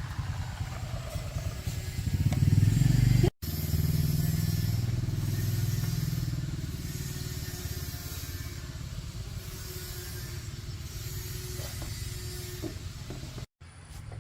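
Suzuki Raider motorcycle engine running. It revs up about two seconds in, then settles to a steady idle. The sound cuts out abruptly twice.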